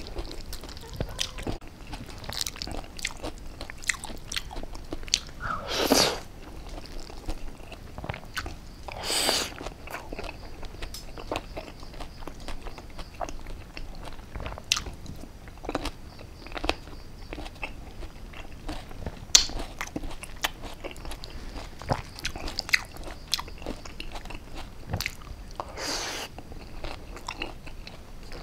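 A person chewing and biting into an oyster salad with raw greens and cherry tomatoes, close to a clip-on microphone: a continual run of small wet crunching clicks, with a few louder mouth noises about 6, 9 and 26 seconds in.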